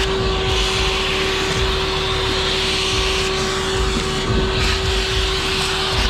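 A motor running steadily: an even rushing hiss with a constant mid-pitched whine over it.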